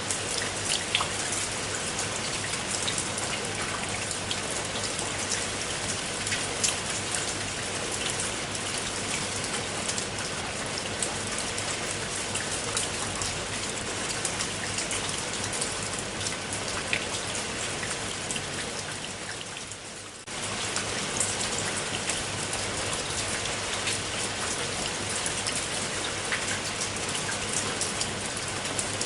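Steady rain falling, an even hiss with many small drops pattering. About two-thirds of the way in it fades briefly, then comes back abruptly at full level.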